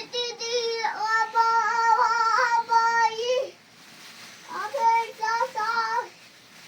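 A child singing high, held notes in two phrases: a long one, then a shorter one after a pause of about a second.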